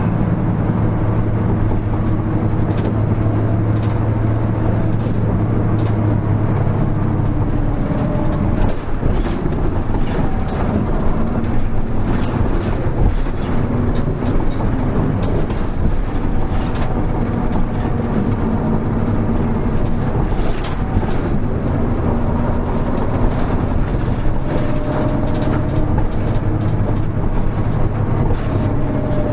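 Interior running sound of a Hino Rainbow HR (KL-HR1JNEE) city bus under way, its diesel engine humming steadily. About eight or nine seconds in the engine note changes and then rises and falls in pitch, over a continuous body rattle and clicking.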